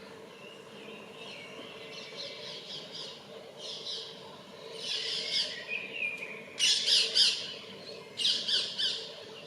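Common blackbird calling in short bursts of rapid, high chattering notes, a territorial and courtship call. The phrases come one after another and get louder, the loudest about two thirds of the way in and again near the end.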